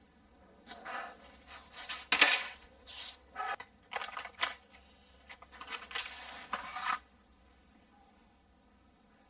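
Irregular scratchy cutting and tearing strokes on the paper facing of damaged plasterboard, trimming away loose paper around the hole; the strokes stop about seven seconds in.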